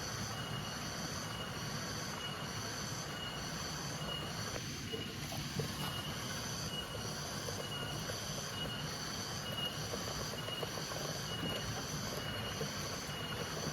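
Insects calling in an even pulsed rhythm: a high buzzing whine repeating about three times every two seconds, over a steady background hiss.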